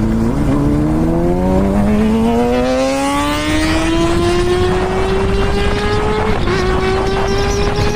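Kawasaki Ninja ZX-6R's inline-four engine accelerating hard in one long pull, its pitch climbing steadily, with a short dip about six seconds in and a drop at the very end.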